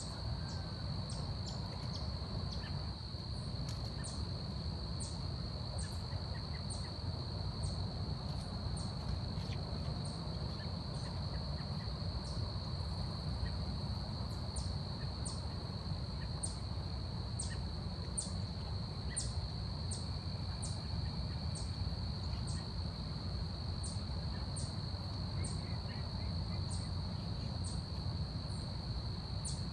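Forest ambience: a continuous high insect drone with short high chirps repeating about once or twice a second, over a steady low rumble.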